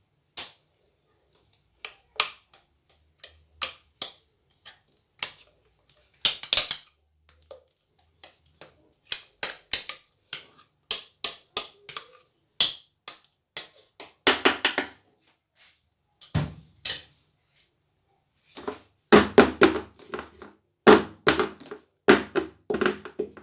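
Kitchen clatter of utensils and a cake tin: scattered sharp clicks and taps, then a run of heavier knocks in the last few seconds.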